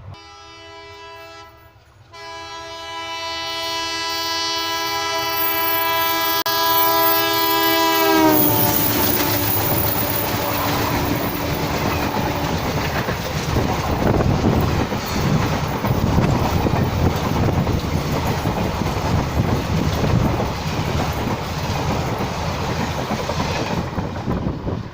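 WDM3A diesel locomotive passing with its horn blowing a long chord, with a short break near the start; the horn's pitch drops as the locomotive goes by. Then the loud rumble and wheel clatter of the train passing continue until just before the end.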